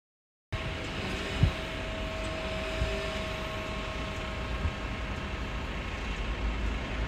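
Scania truck running, a steady low rumble with a few short thumps, starting about half a second in.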